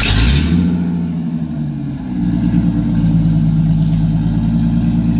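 Truck engine revving: the pitch climbs quickly at the start and holds, drops briefly about two seconds in, then rises again and stays steady at raised revs.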